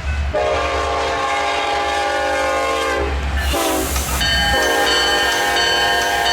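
Diesel freight locomotive's horn sounding: a long blast, a short one about three and a half seconds in, then another long blast, over the low rumble of the engines.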